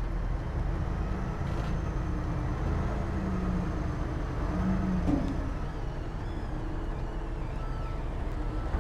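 Diesel engine of heavy earthmoving machinery running, a steady low rumble whose pitch shifts briefly about five seconds in.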